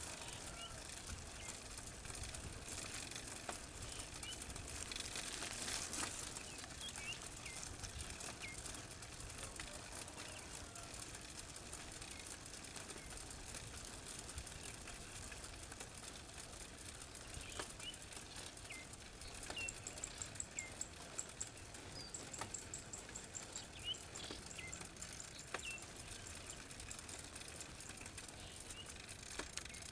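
Quiet outdoor village ambience with faint, scattered bird chirps, and a brief run of quick high ticks about two-thirds of the way in.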